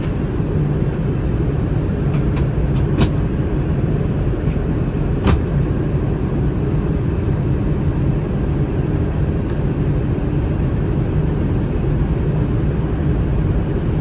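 Steady cabin noise inside an Airbus A319 in flight: the CFM56 engines and rushing airflow make an even, low hum. A few brief clicks sound in the first six seconds.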